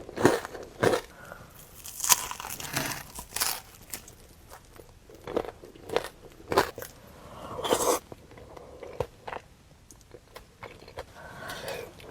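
A person biting and chewing crunchy food, in short, irregular crunches.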